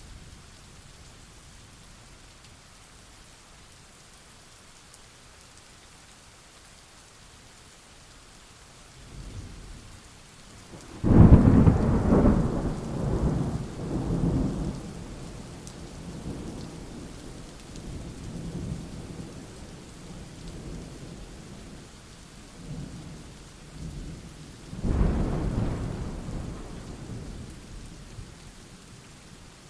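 Steady rain with thunder: a sudden loud thunderclap about a third of the way in that rolls and rumbles for several seconds, and a second rumble of thunder near the end.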